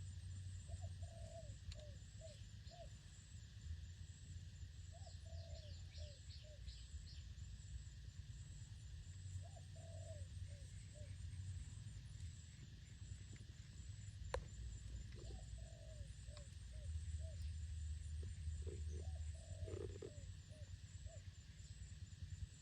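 A dove cooing in repeated phrases of four or five short falling notes, about five phrases in all. Faint high chirps from another bird come a few seconds in, and a single click falls just past the middle, all over a low steady rumble.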